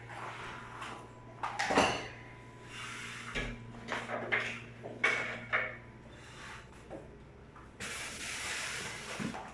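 Handling noises at a refrigerator: irregular knocks and rubbing, with a loud clunk just under two seconds in and a longer scraping rub near the end, like a door or panel being worked. A steady low hum runs under them for about the first six seconds.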